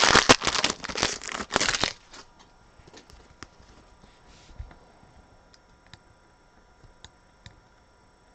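Wrapper of a trading-card pack being torn open and crinkled, noisy for about the first two seconds. After that come only faint light ticks as the cards are handled.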